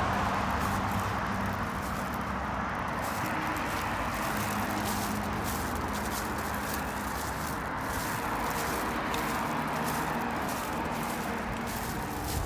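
Steady rushing noise of road traffic, with a faint low engine hum underneath.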